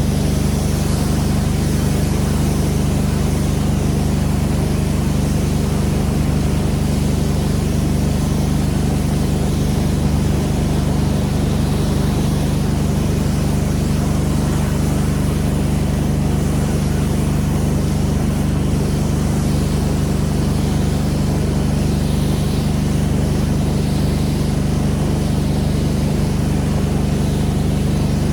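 Pressure washer engine running steadily, with an even hiss of spray over its low drone.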